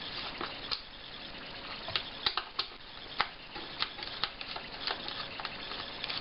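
Screwdriver backing out the screws of a speaker's back cover: irregular light clicks and scrapes.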